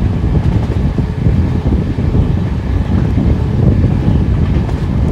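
Wind buffeting the microphone from the side of a moving passenger train, over the steady low rumble of the coach running along the track.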